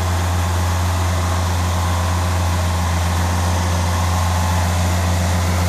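Land Rover Santana 4x4's engine running at steady low revs with a constant low hum as it crawls through a muddy puddle.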